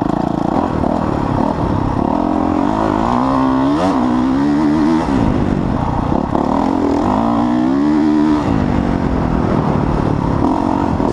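Dirt bike engine being ridden hard, its pitch climbing and dropping several times as the rider opens and closes the throttle.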